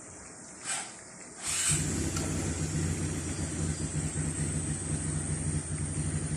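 A faint steady sizzling hiss, like food frying in a pan. About a second and a half in, a loud, steady low mechanical hum starts and runs on.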